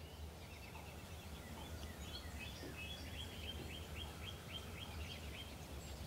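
A songbird singing a long run of quick repeated notes, about four a second, over a faint steady low rumble.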